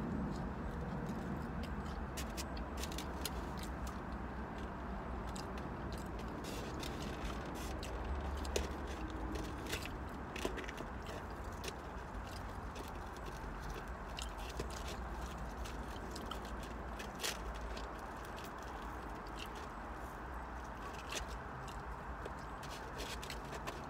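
Close-up mouth sounds of chewing fried catfish and fries, with scattered small clicks and scrapes as fingers pick at the food in a takeout tray, over a steady low hum inside a car.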